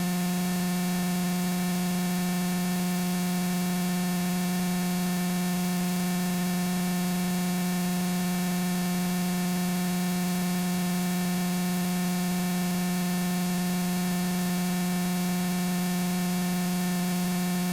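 Steady buzzing electrical hum with hiss on the aircraft's radio audio feed between transmissions, cutting in and out abruptly.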